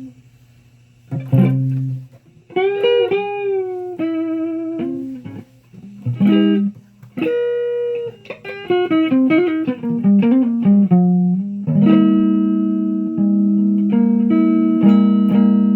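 Electric guitar played through an amp: single-note phrases with string bends and vibrato, then held, ringing chords from about twelve seconds in.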